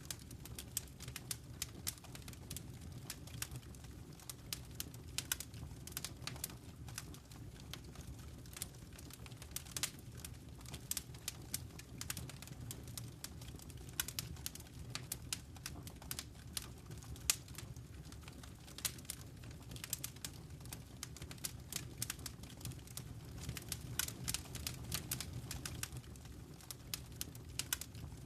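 Wood fire crackling in a fireplace: irregular sharp pops and snaps several times a second over a low steady rumble.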